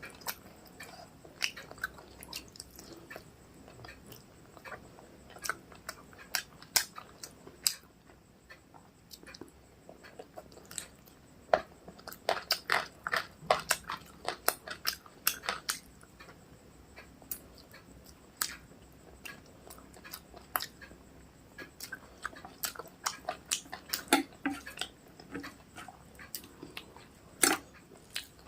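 Close-up chewing and wet mouth sounds of a person eating rice with chicken curry: a run of short smacking clicks, busiest about halfway through.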